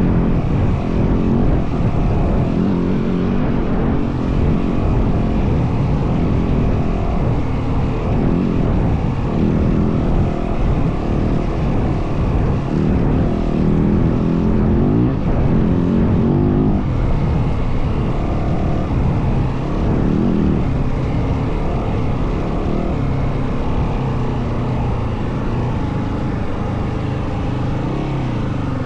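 Yamaha WR450F single-cylinder four-stroke dirt bike engine running under way, its pitch rising and falling again and again with the throttle.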